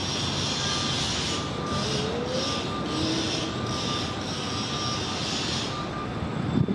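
Diesel city bus engines running at a bus terminal: a steady engine roar, with a higher hiss that comes and goes several times in the middle.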